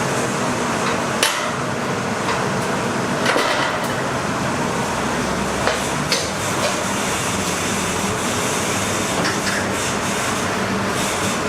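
Steady kitchen noise, a constant hiss, with a few sharp knocks and clatters, the first about a second in and others around three and six seconds in.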